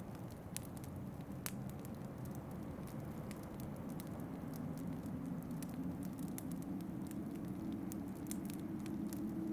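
Wood fire crackling with scattered sharp pops, over a steady low rush of wind that grows a little louder about halfway through.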